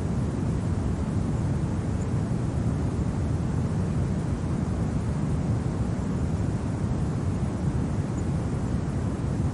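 Steady, low rumbling winter wind, with no distinct gusts or other events.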